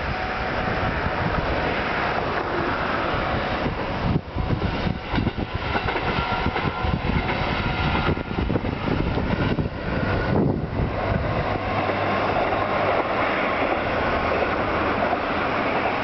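A single-car KiHa 125 diesel railcar passing. Its wheels clack over the rail joints for several seconds, starting about four seconds in, and then a steadier running noise follows as it moves on.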